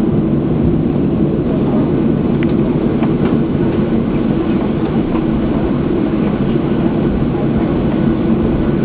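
Cabin noise of a Boeing 737-800 rolling on the ground after landing: a steady engine hum and rumble with a few faint rattles.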